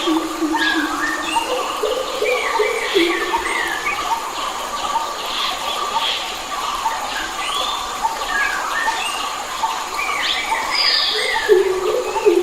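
Several forest birds singing and calling at once: chirps and short whistled phrases that slide up and down, over a note repeated at an even pace, with lower drawn-out calls near the start, about a second in and again near the end.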